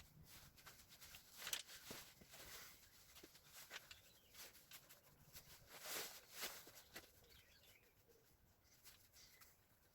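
Near silence with a few faint, scattered clicks and knocks, the most noticeable about a second and a half in and around six seconds in.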